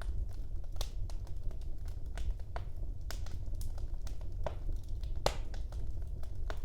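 Wood fire burning in a fireplace: irregular sharp crackles and pops over a steady low rumble of the flames, with louder pops about a second in, around three seconds in and a little past five seconds.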